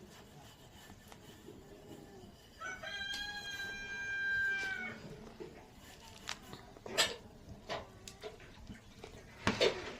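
A rooster crowing once, a single long held call of about two seconds. A few sharp clicks follow later.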